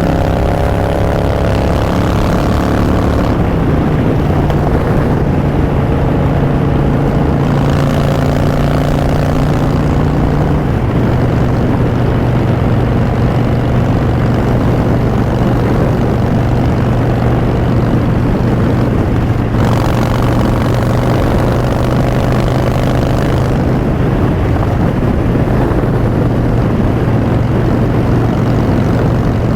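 2016 Harley-Davidson Street Bob's V-twin engine through Vance & Hines Short Shots exhaust, running while riding. Its pitch steps down twice in the first ten seconds, then holds steady as it cruises.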